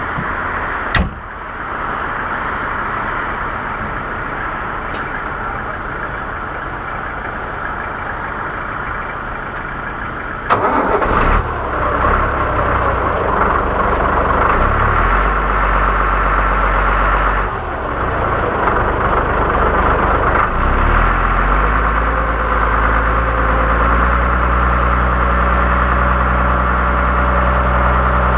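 Deutz-Fahr 6.61 tractor engine being started: a steady hum and a couple of sharp clicks, then the engine starts about eleven seconds in. It varies for a few seconds, then settles into a steady idle, with a faint whine slowly rising near the end.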